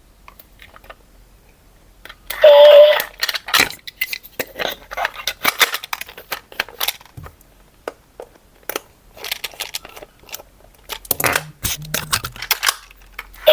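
Plastic toy parts and packaging being handled: a string of irregular clicks, clacks and rustles, with a brief louder burst about two and a half seconds in.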